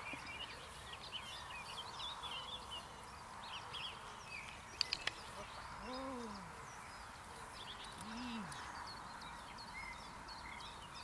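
Small songbirds chirping and singing in many short, high calls, with a few sharp clicks about halfway through and two low, rising-then-falling calls in the second half.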